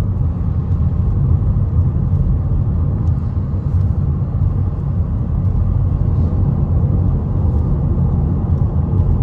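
Steady low rumble of road and engine noise from a car driving along, heard from inside the cabin.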